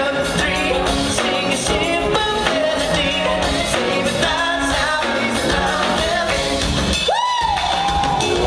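A vocal group singing a pop song over a backing band. About seven seconds in, one voice swoops up to a high note and falls away.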